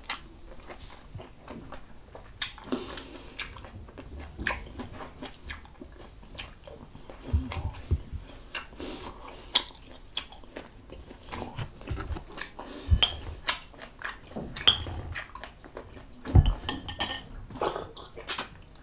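Close-miked chewing of beef bulalo, bone marrow and ossobuco, with short clicks of cutlery against dishes at irregular moments.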